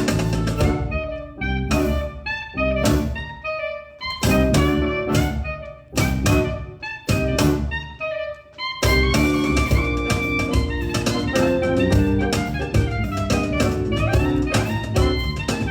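Live instrumental ensemble music. It opens with short, accented chords separated by brief breaks, and from about nine seconds in the ensemble plays on without pause.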